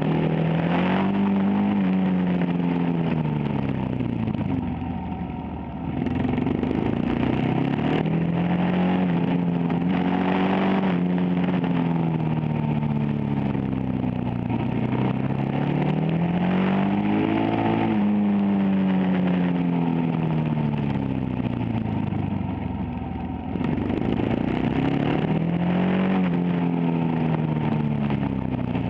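Supermoto motorcycle engine ridden hard, heard onboard: the engine note climbs and falls over and over as it accelerates out of corners and rolls off into them. Twice the sound dips briefly as the throttle closes, and partway through the pitch drops sharply.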